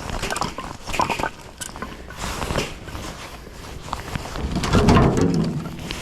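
Split firewood knocking and clattering as pieces are handled and stacked, with several sharp wooden clacks and a louder, longer scraping clatter about five seconds in.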